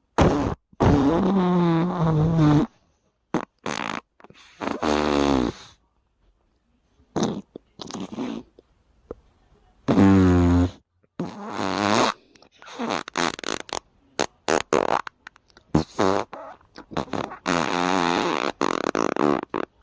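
Fart sound effect: a long string of flatulence noises of varying length, some drawn out and wavering in pitch, others short blasts, with brief gaps between them.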